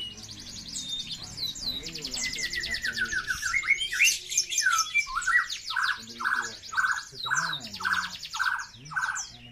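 Several canaries singing together in a contest, with dense fast trills and rolls, a falling run of notes in the middle, and then a steady series of lower notes about two a second near the end.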